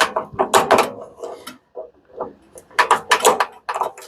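Rapid clanks and rattles of metal parts from a dismantled commercial coffee machine being handled and set down. They come in two busy clusters, one at the start and another from about three seconds in, with a few lighter taps between.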